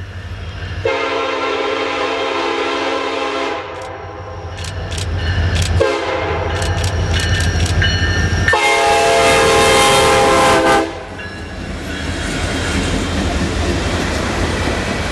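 Diesel freight locomotive's air horn sounding three long blasts, the last the loudest, over the steady rumble of the locomotive and its passing freight cars. Sharp clicks of wheels over rail joints come through in the middle.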